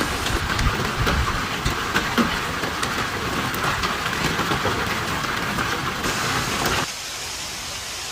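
Hail and rain pelting down, a dense clatter of many sharp impacts; about seven seconds in it drops abruptly to a quieter steady hiss.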